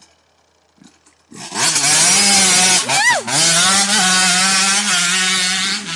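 Motorbike engine running hard at high revs, coming in loud about a second and a half in, with a brief drop in revs and pick-up about halfway through.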